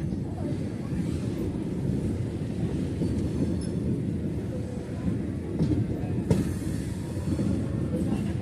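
MEMU electric passenger train running along the track, heard from inside the moving coach: a steady low rumble of wheels on rail with one sharp knock about six seconds in.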